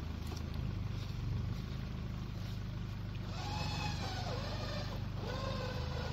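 Off-road vehicle engine running steadily at low revs. About three seconds in, a higher whine joins it and wavers in pitch.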